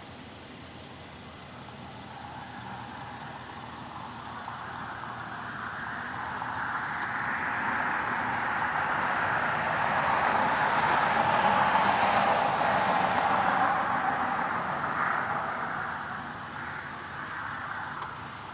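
A vehicle passing by: a rushing noise that builds for about ten seconds, peaks, then fades.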